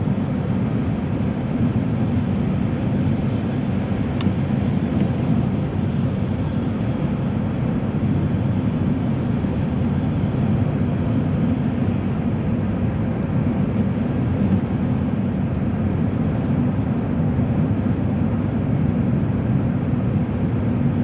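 Steady road and tyre noise with engine drone inside a car cabin at highway speed.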